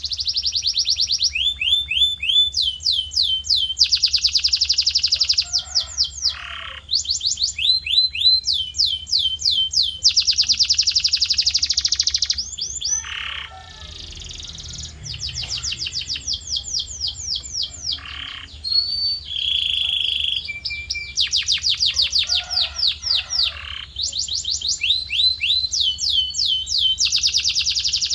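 Male canary in full song: fast trills of rapidly repeated, sweeping high notes, switching to a new trill every second or two, with a few lower notes and one short held whistle about two thirds of the way through.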